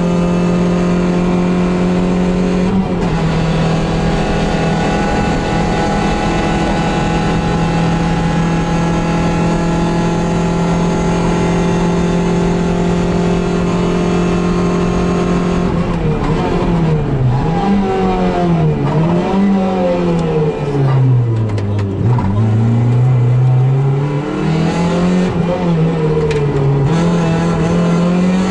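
Suzuki Swift GTi MkII rally car's 1.3-litre twin-cam four-cylinder, heard from inside the cabin, held at high revs at a nearly steady pitch, with one small drop about three seconds in. From about halfway through, the revs fall and climb again and again, dipping lowest a little after twenty seconds before rising back.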